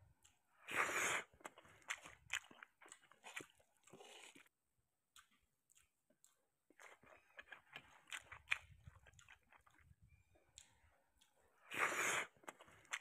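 Close-miked mouth sounds of eating rice and canned sardines by hand: wet chewing, lip smacks and small clicks. Two louder wet bursts, about a second in and near the end, come as a handful goes into the mouth.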